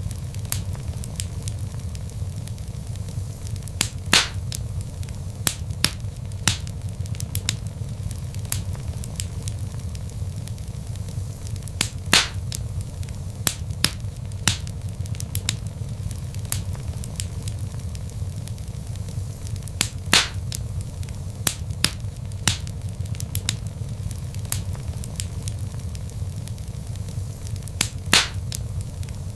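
Log fire burning in a fireplace: a steady low rumble of flames with frequent small crackles and a sharp louder pop about every eight seconds. It comes in suddenly out of silence at the start.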